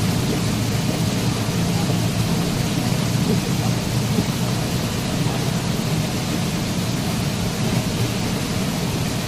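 Waterfall: a steady, unbroken rush of falling water, weighted towards the low end.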